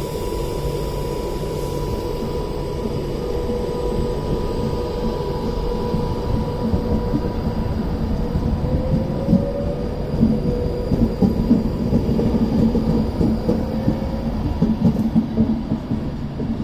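Avanti West Coast Class 390 Pendolino electric train pulling out of the station: a steady running hum with a held tone that rises slightly, then from about ten seconds in an uneven clatter of wheels over rail joints.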